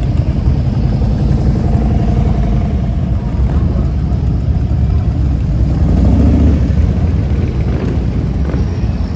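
Motorcycle engines running in slow street traffic, a dense low rumble that grows louder for a moment about six seconds in.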